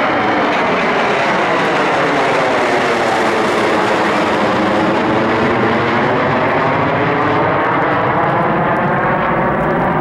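Jet engines of a departing Delta airliner, an MD-80 by the uploader's guess, at takeoff thrust, a loud steady roar as the jet climbs out overhead.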